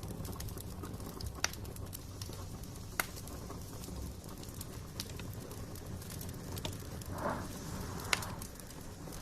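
Wood fire in a fireplace crackling, with sharp single pops every second or two over a low steady rumble of the flames.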